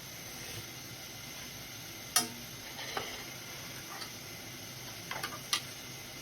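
Faint, steady sizzling of food frying in a pan, with a few sharp clicks and taps of cookware over it. The loudest tap comes about two seconds in, and a quick cluster follows about five seconds in.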